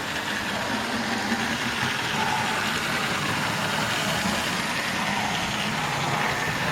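00 gauge model trains running: a steady whir of small electric locomotive motors and wheels rolling on the rails.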